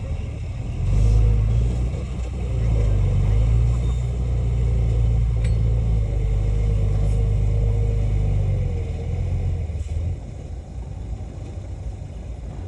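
Heavy diesel earthmoving machinery running with a deep engine rumble that swells about a second in and eases off near the end, with a wavering whine above it for a few seconds.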